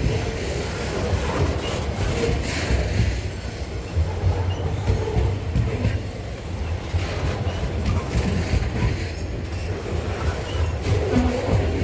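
Loaded grain wagons of a freight train rolling past: a steady low rumble with irregular clacks of wheels over the rails and a few short, faint wheel squeals.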